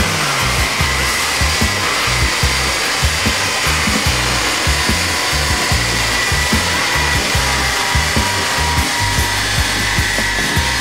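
Air-cooled VW Beetle engine running hard on a chassis dyno, a loud steady rushing noise.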